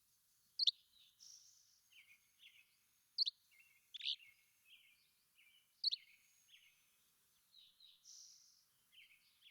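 Several wild birds singing together: one bird repeats a loud, sharp, down-slurred note about every two and a half seconds over steady, busy chirping and short buzzy notes from other birds.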